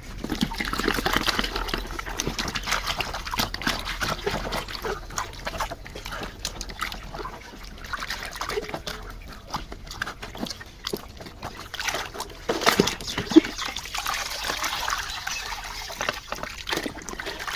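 Water sloshing and splashing as a muddy plastic toy car is swished and scrubbed by hand in a tub of water, with many small irregular knocks and clicks of the toy.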